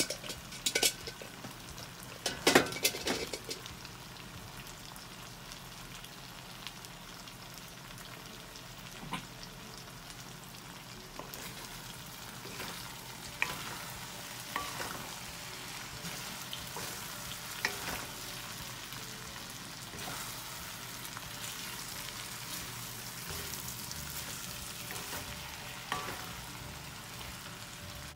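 Ground pork and diced potato sizzling steadily in a stainless steel wok, stirred with a wooden spatula that knocks against the pan now and then. A cluster of louder clatters comes in the first three seconds.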